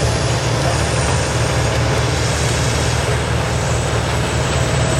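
Large tracked horizontal wood grinder running at a steady, loud level: a low engine drone under a dense, even hiss of machinery.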